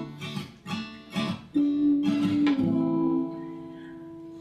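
Acoustic guitar strummed a few times, then a last chord left ringing and slowly fading.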